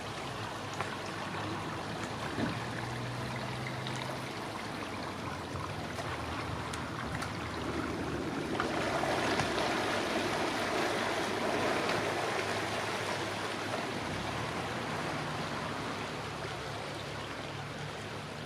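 Boat engines running low and steady on the river under an even rushing noise, which swells from about eight to thirteen seconds in and then eases.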